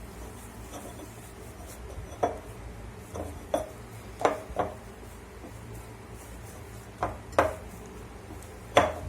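Pizza dough being kneaded by hand: a soft rubbing broken by about eight irregular knocks as the dough is pushed and pressed down.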